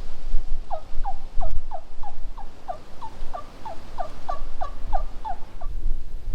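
Wild turkey yelping: a long, even series of about fifteen short yelps at about three a second, each note dropping in pitch, over a low rumble.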